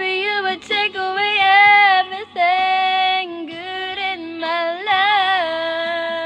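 A woman singing long, held notes with vibrato, over faint musical accompaniment.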